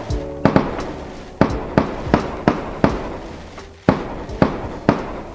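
Fireworks going off in a rapid string of sharp bangs, about two to three a second, each ringing out briefly. The bangs fade into a short lull a little past halfway, then start again.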